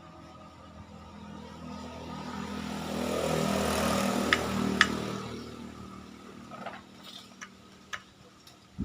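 A motorcycle engine swells up to a peak about four seconds in and then fades away, with two sharp clicks near the loudest point.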